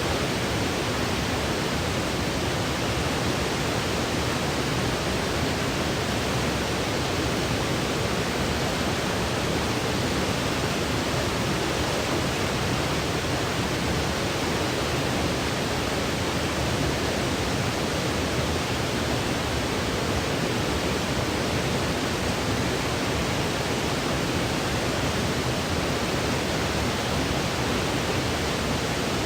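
Steady white noise played as a baby's sleep aid: an even, unchanging hiss.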